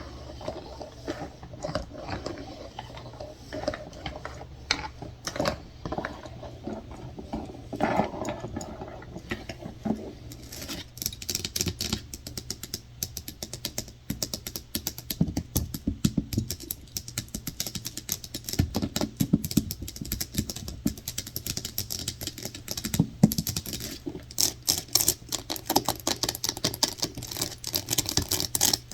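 Fast, irregular tapping and scratching on objects: many quick, sharp clicks, sparser with some scratching at first and turning into dense rapid tapping about ten seconds in.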